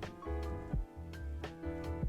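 Background music: a light jazz-style tune with piano or keys over a steady drum beat and bass.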